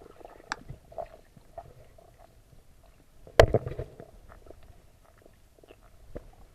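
Muffled underwater sound: scattered faint clicks and crackles over a low hum, with one sharp knock about three and a half seconds in.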